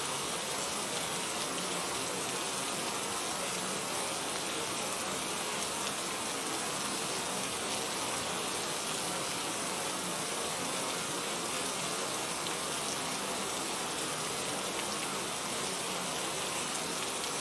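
Steady rushing water, an even unbroken hiss that holds the same level throughout.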